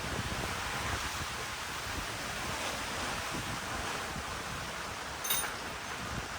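Wind buffeting the microphone, a gusty rumble over a steady hiss, with a single light clink about five seconds in.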